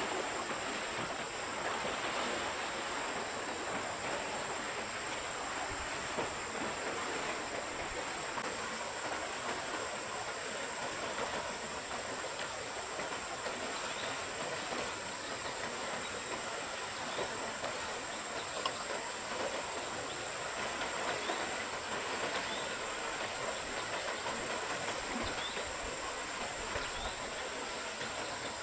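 A forest stream running steadily, an even rush of water with no pauses.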